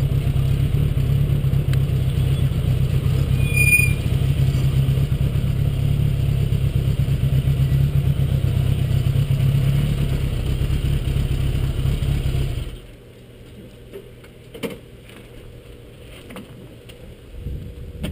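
1979 Honda GL1000 Goldwing's water-cooled flat-four engine running steadily, then stopping abruptly about thirteen seconds in. A few faint clicks and knocks follow.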